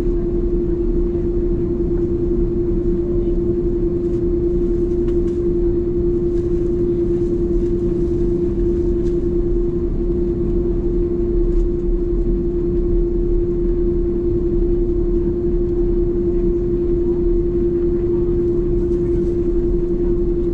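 Steady cabin drone of an Airbus A330 airliner: a constant hum over a low rumble, unchanging throughout.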